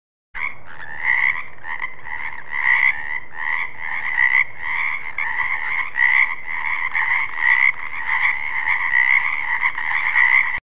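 Frog croaking repeatedly, about two to three croaks a second. It starts abruptly and cuts off suddenly near the end.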